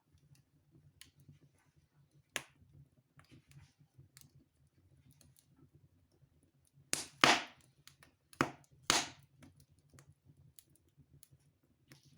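Wood fire crackling in a fireplace: scattered faint crackles, then a cluster of four loud pops about seven to nine seconds in.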